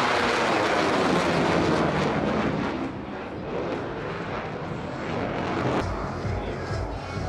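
Jet aircraft of the Black Eagles team (KAI T-50B trainers) passing by with a loud jet roar that falls in pitch. It fades after about two and a half seconds into a quieter, steady jet rumble.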